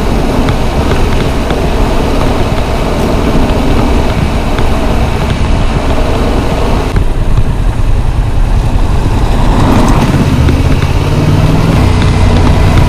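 Yamaha MT-07's parallel-twin engine running on the move under heavy wind rush. About seven seconds in the wind noise drops sharply as the bike slows, leaving the engine's low drone clearer.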